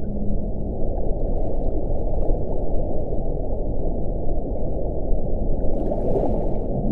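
Wind blowing with a steady, deep rushing sound. A low howling tone fades out within the first second.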